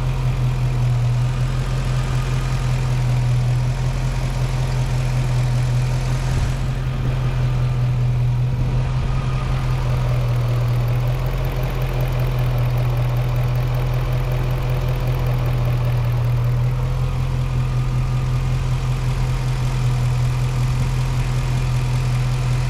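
2006 Dodge Charger R/T's 5.7-litre Hemi V8 idling steadily, a little smoother since its crankshaft position sensor was replaced but, in the owner's words, still running the same: the misfire is not cured.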